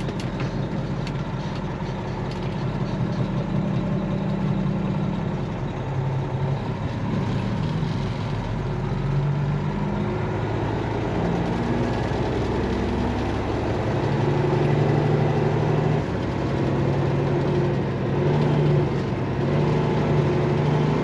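Semi truck's diesel engine running as the rig moves slowly, its engine speed rising and falling in steps.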